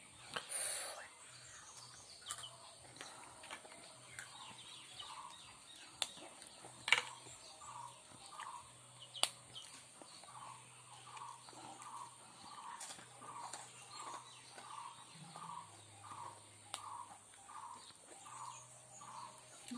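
A bird calls over and over, short arched notes about twice a second and often in pairs, from about eight seconds in, over a steady high hiss. There are a few sharp clicks, the loudest about seven seconds in.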